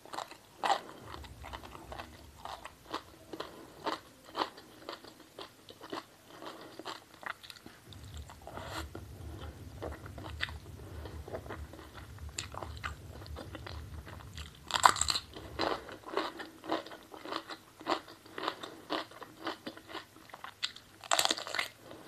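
Close-miked eating: crisp crunching bites and chewing, steady through the stretch, with two louder crunchy bites about 15 and 21 seconds in.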